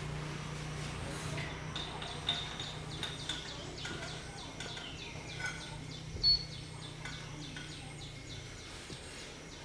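Birds chirping in short, repeated high calls, one louder than the rest a little after six seconds, over a low steady hum that fades out near the end.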